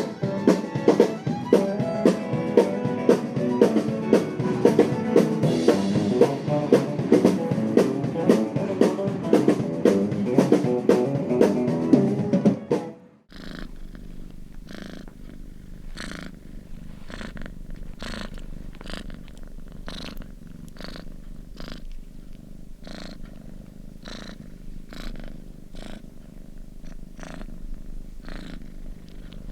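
Music with a steady beat for the first half, then an abrupt cut to a cat purring close by, in even pulses about once a second over a low steady hum.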